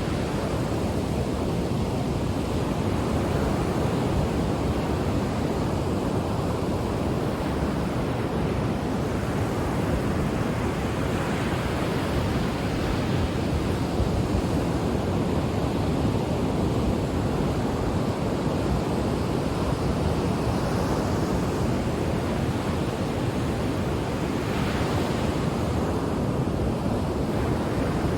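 Ocean waves washing onto a beach, a continuous surf rumble that swells gently as waves break, with a brighter wash twice, about halfway through and near the end.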